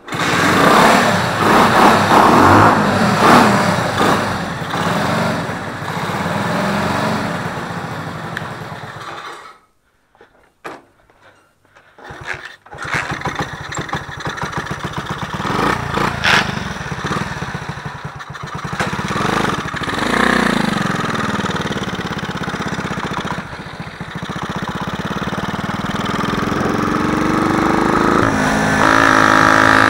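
Small scooter engine of an Orion Gizmo LUX 50/70cc running and revving up and down. It drops out for about three seconds roughly ten seconds in, then runs again.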